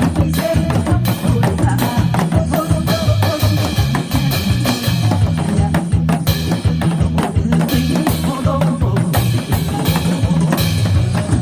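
Instrumental passage of a Korean song's backing track with a steady drum beat and janggu hourglass drum strokes played over it, quick and dense throughout.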